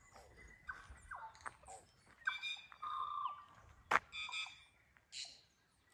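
Birds calling: a run of short whistled notes, some held briefly, with a sharp click about four seconds in.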